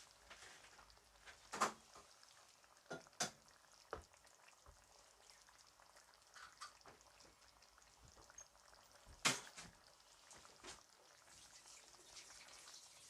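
Quiet room tone broken by a few short, sharp clicks and knocks, the loudest about a second and a half in and again about nine seconds in, with a small pair around three seconds.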